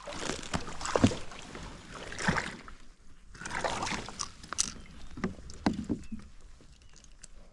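Water splashing and sloshing against a fishing kayak, with sharp knocks on the hull, coming in four or five uneven swells.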